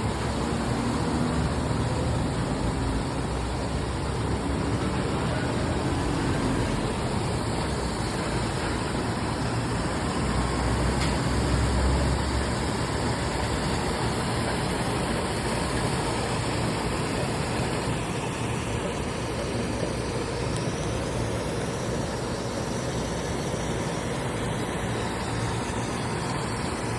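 Tanker trucks passing on a road: steady traffic noise with a low rumble that swells to its loudest about eleven seconds in.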